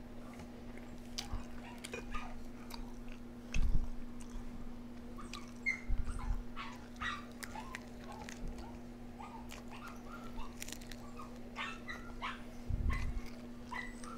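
A dog whining and yipping in short high calls, coming thick and fast through the second half, over a steady low hum, with a few dull thumps.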